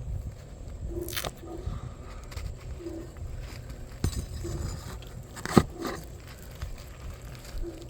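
Low, short cooing notes from a dove, repeating every second or two, with a few sharp knocks, the loudest about five and a half seconds in.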